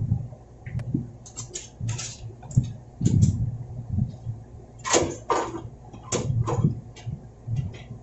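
A metal ATX power supply handled and set into a steel PC case: irregular clicks, knocks and scrapes of metal on metal, with dull handling thumps between them.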